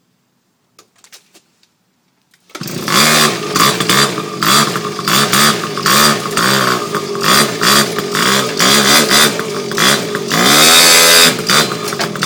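X1 pocket bike's small two-stroke engine being revved again and again, each rev a quick rise and fall in pitch. After a few faint clicks, the engine sound cuts in suddenly about two and a half seconds in.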